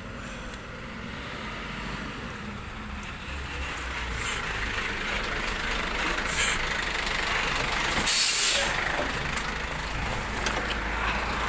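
An old glass recycling collection truck running and growing louder, with short bursts of hiss about four, six and eight seconds in.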